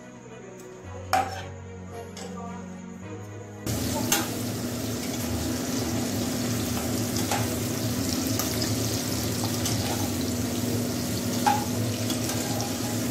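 Diced onions and capsicum sizzling in hot oil in a non-stick pan, with a spatula scraping and knocking against the pan a few times. The sizzle comes in suddenly about four seconds in; before that there is only background music.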